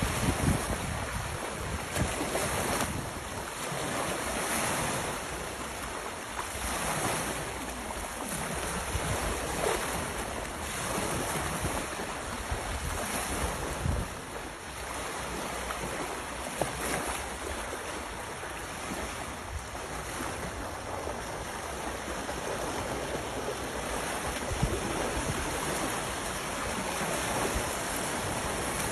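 Sea waves washing onto the shore, surging every few seconds, with wind buffeting the microphone.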